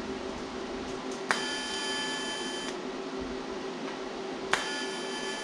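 Two short bursts of electric welder buzz, each starting with a sharp click: tack welds on sheet-metal patch pieces. The first lasts about a second and a half, and the second starts near the end. A steady low hum runs underneath.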